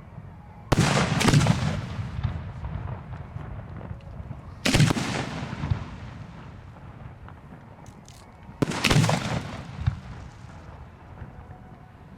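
Fireworks shells bursting close by: three loud booms about four seconds apart, the first with a second bang right after it, each dying away in a rumbling echo.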